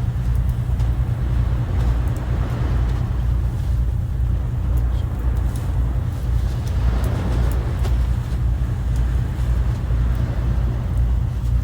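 Sea waves washing ashore with a heavy low rumble of surf and wind, swelling as waves break about two and a half and seven seconds in.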